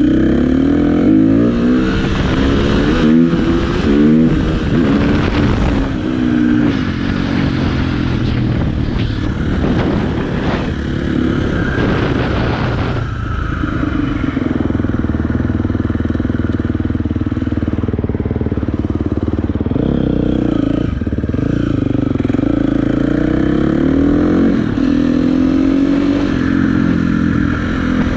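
Dirt bike engine running loud, its revs rising and falling again and again as the throttle is worked.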